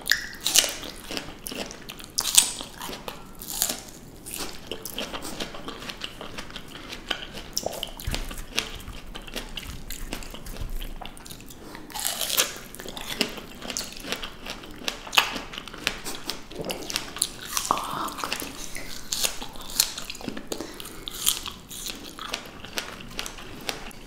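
Close-miked ASMR eating of fresh fruit: biting and chewing, with irregular crisp bites and juicy mouth sounds.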